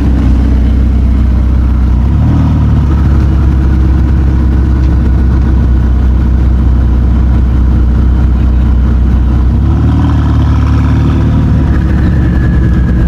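Car engine idling with a deep, steady rumble. Its note shifts briefly about two seconds in and again about ten seconds in.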